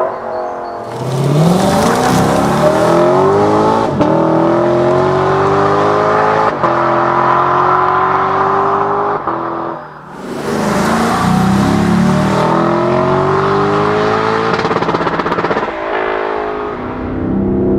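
Lexus LC 500's 5.0-litre V8 exhaust under hard acceleration, its pitch rising through the gears with quick upshifts of the 10-speed automatic. It lifts off about ten seconds in, then pulls hard again through more upshifts.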